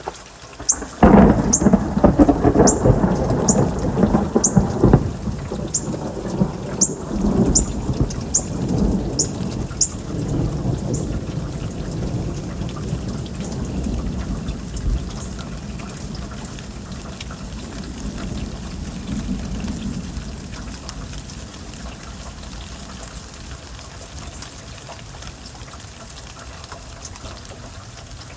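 A peal of thunder breaks suddenly about a second in, stays loud for about four seconds, then rolls on and fades away over the next fifteen seconds, with steady rain falling throughout.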